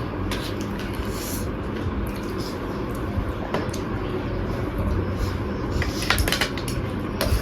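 Cutlery clinking and scraping against a plate or bowl while eating, in scattered clicks with a cluster about six seconds in and a sharper clink near the end. A steady low hum runs underneath.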